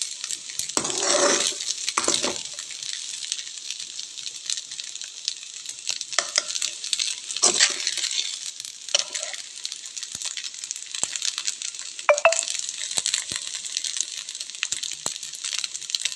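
Ragi flour with onion and peanuts sizzling in ghee in a pan, stirred with a spatula that scrapes across the pan in strokes every few seconds. A sharp clink of the spatula on the pan about twelve seconds in.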